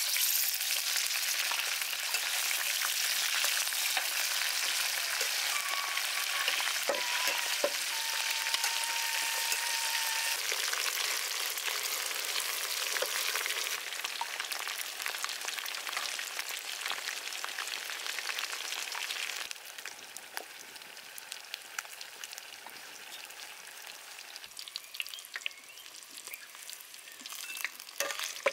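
Food frying in hot oil: a dense, steady sizzle full of fine crackles. About two-thirds of the way through it drops noticeably quieter and carries on.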